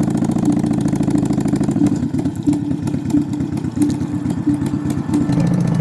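Cruiser motorcycle's engine with an aftermarket Vance & Hines Big Radius exhaust, idling steadily.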